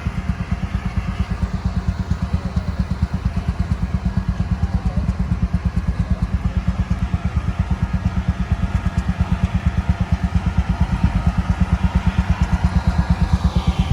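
Steam engine running with a steady, rapid beat of about six pulses a second, growing slightly louder towards the end.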